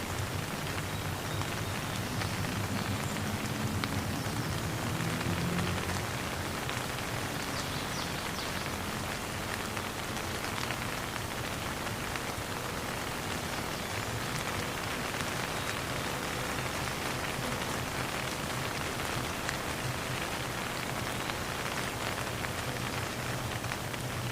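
Steady rain falling, an even hiss of many drops, with a low rumble beneath it that swells about four to six seconds in.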